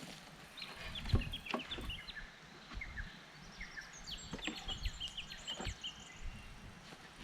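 Birds calling in a rapid run of short, high chirping notes that thickens about two-thirds of the way through, with a few sharp clicks in between.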